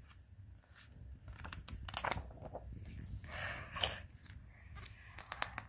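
Quiet paper rustles and small clicks, as of a picture book's page being turned and handled.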